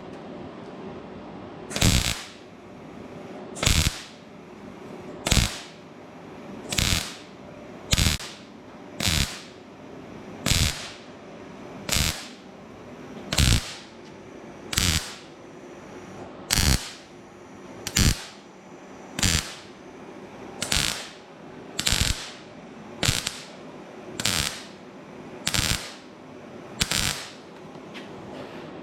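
Welder tacking up rust holes in a thin steel fender in short, crackling bursts, about nineteen of them at a steady pace of one every second or so.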